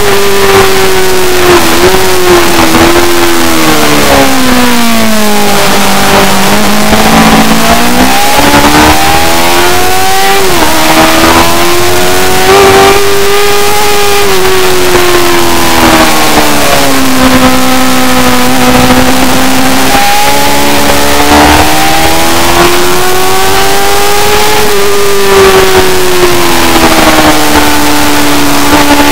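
Superbike engine running hard at high revs. Its pitch climbs and falls continuously with the throttle, with a few sudden drops in pitch at gear changes, under a constant rushing noise.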